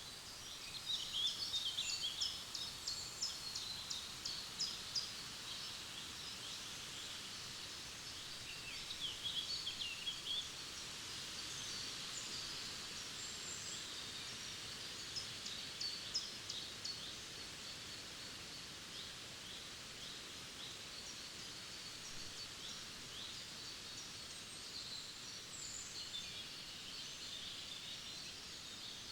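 Several forest songbirds singing and chirping in quick, high calls and trills, busiest in the first few seconds and again around the middle, over a faint steady background hiss.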